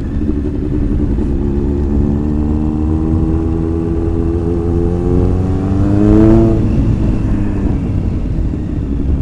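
Kawasaki ZX-9R inline-four motorcycle engine under way at low speed. Its pitch climbs slowly for about five seconds, falls off sharply about six seconds in, then runs steady.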